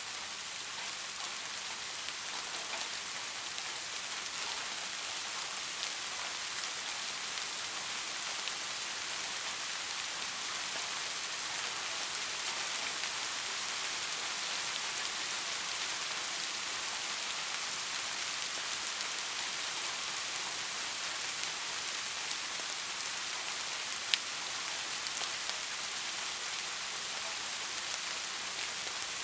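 Steady rain falling, an even hiss with scattered drops ticking on a surface, and one sharper drop or click about 24 seconds in.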